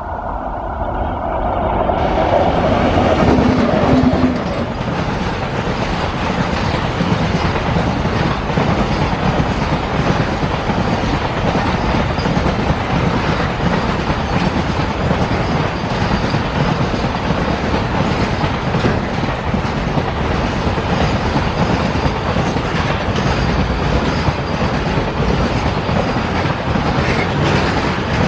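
An Indian Railways WAG-9 electric locomotive passes close by, loudest about three to four seconds in with a steady hum. A long freight train of wagons follows, rolling past with steady wheel clatter over the rail joints.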